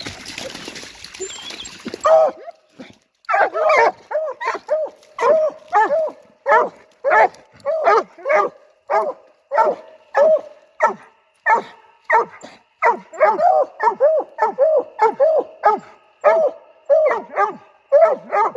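Coonhound barking over and over, about two barks a second, starting about two seconds in after a short stretch of noisy rustle.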